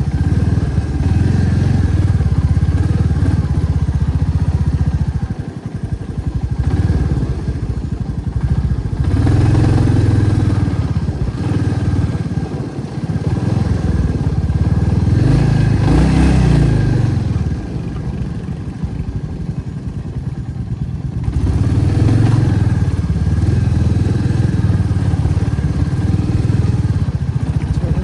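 Motorcycle engine running while riding, its level and pitch rising and falling several times with the throttle.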